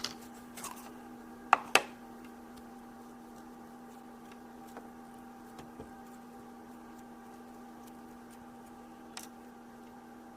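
Light handling clicks of plastic toy pieces and Play-Doh: two sharp clicks about a second and a half in, a few faint ticks, and one more click near the end, over a steady electrical hum.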